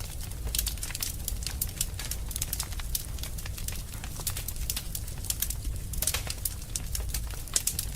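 Wood fire burning in a fireplace, crackling with many small irregular pops over a low steady rumble.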